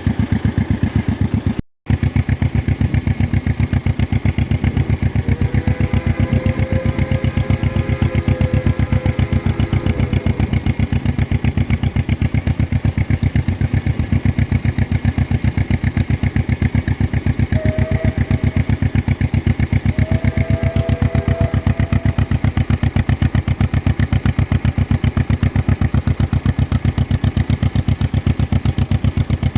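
1953 John Deere 40's two-cylinder engine running steadily, an even rapid pulse of firing strokes. The audio drops out briefly about two seconds in.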